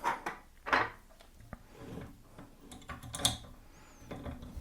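Short metallic clicks and knocks of a countersink bit being worked loose and handled at a pillar drill's chuck. The clearest knocks come at the start, about three quarters of a second in and around three seconds in.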